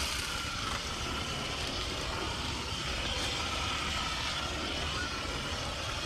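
Hose-fed sprayer spraying salt-wash soap solution onto the boat: a steady hiss of water spray that holds at an even level.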